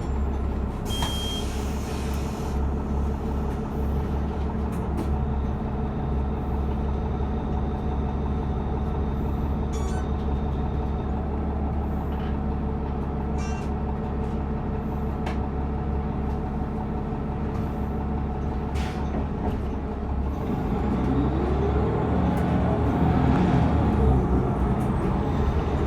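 City bus heard from inside the cabin: the engine drones steadily with a low hum, and there are occasional light rattles and clicks. About 20 seconds in it grows louder, with a rising whine as the bus accelerates.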